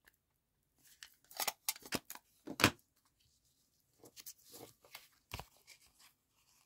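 Scissors snipping paper: a run of short, sharp cuts about a second in, then a second run about four seconds in, with paper being handled between them.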